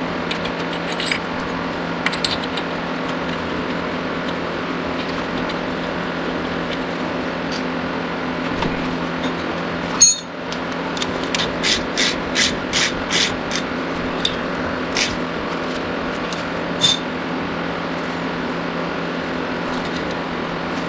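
Steady mechanical hum with metal tools at work: a single sharp knock about halfway through, then a quick run of sharp metallic clinks, about two a second, for a few seconds.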